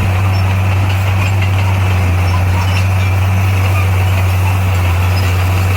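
Heavy diesel engine of earthmoving machinery running steadily, a constant deep drone.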